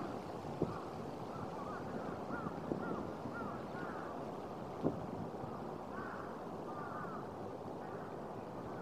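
Birds calling in short, repeated arching notes over a steady rushing background of wind, with a few light taps, the sharpest about five seconds in.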